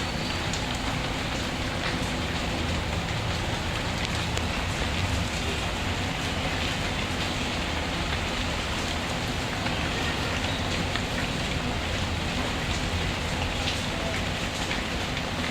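Steady rain falling, mixed with the sound of a fireplace fire, with scattered faint small ticks.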